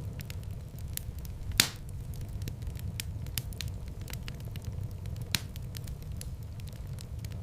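Wood fire crackling steadily over a low rumble of flames, with two sharper pops, the louder about one and a half seconds in and another just after five seconds.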